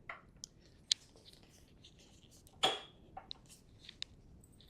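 A thru axle being slid through the bike's rear dropouts and the trainer's hub spacers, making a few light metallic clicks and one louder knock about two and a half seconds in.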